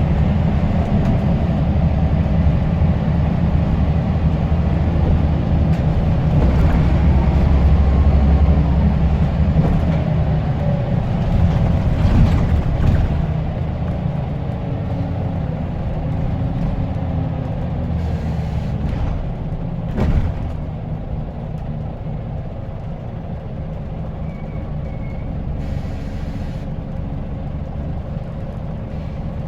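Scania L94UB bus's diesel engine running, louder through the first dozen seconds and then easing off. A sharp knock comes about twenty seconds in, and a short hiss a few seconds later.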